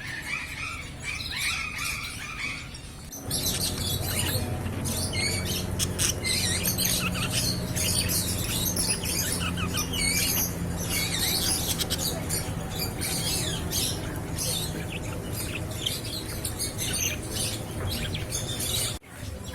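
Many caged aviary birds chirping and squawking in a busy, overlapping chorus of quick high calls, over a steady low hum.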